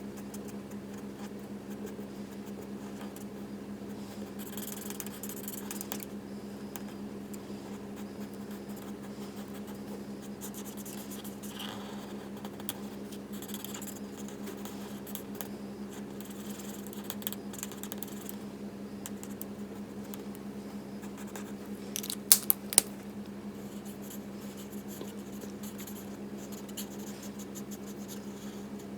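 Alcohol marker strokes scratching faintly on cardstock as a stamped image is coloured in, over a steady low hum. A few sharp clicks come close together about two-thirds of the way through.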